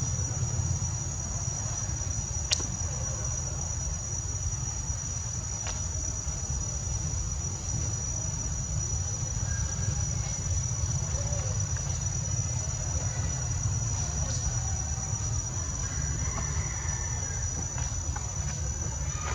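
Insects droning in one steady, high-pitched tone, over a constant low rumble with a few sharp clicks.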